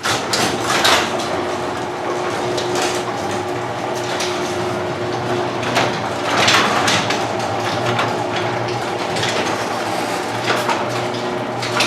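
Noisy LiftMaster garage door opener closing the door: a steady motor hum with rattling and clattering from the door and its tracks. It starts abruptly and runs until near the end.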